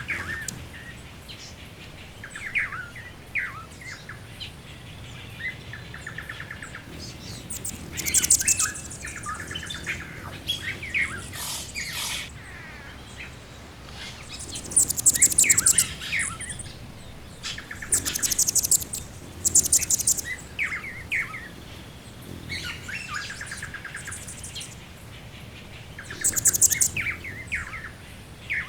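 Birdsong ambience: several birds calling at once, with high, rapid trills every few seconds and many shorter chirps and whistles in between.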